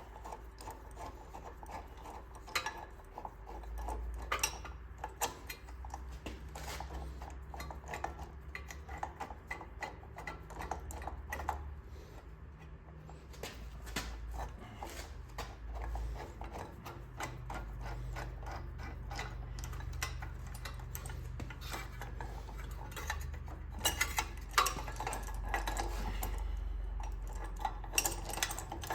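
Metal clinking, tapping and scraping of a steel gear puller being handled and its jaws worked against an engine flywheel: many short, irregular clicks, busier near the end, over a steady low hum.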